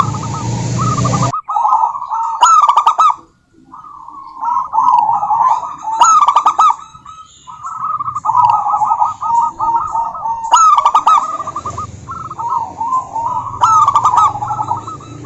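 Zebra doves cooing: repeated phrases of fast, trilled, staccato notes, with calls following and overlapping one another and a few sharp, high notes among them. The calls are from a female zebra dove.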